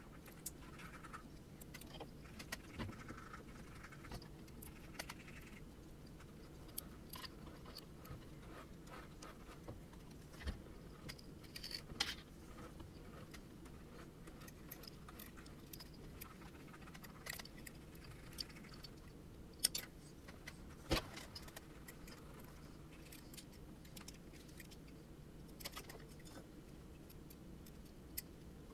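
Scattered light clicks and metallic clinks from hands working on small metal printer parts during assembly, over a steady low hum. A few sharper clicks stand out around the middle and about two thirds of the way in.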